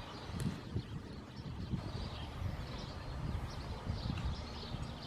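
Scattered small bird chirps over a low, uneven rumble.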